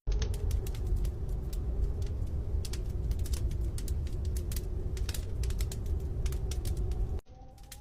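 Raindrops ticking irregularly on a hard surface over a low wind rumble, with a faint steady hum. About seven seconds in it cuts to a much quieter scene.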